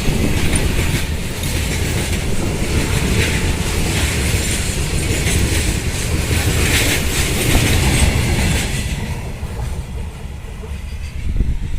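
Indian Railways express mail train passing at speed: a loud rumble with wheels clattering over rail joints, dying away about nine seconds in as the last coaches go by.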